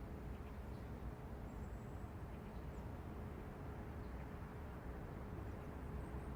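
Steady, faint city ambience: a low rumble of distant traffic, with a thin steady hum and a few faint high chirps over it.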